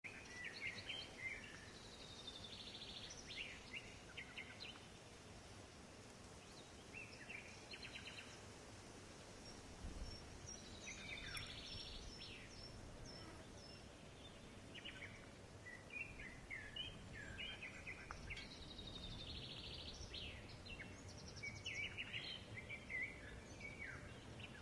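Several songbirds singing: short chirps and quick trills in phrases with brief pauses, over a faint low background rumble.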